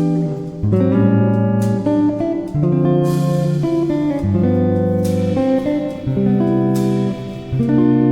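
Background music: strummed guitar playing chords that change about every second.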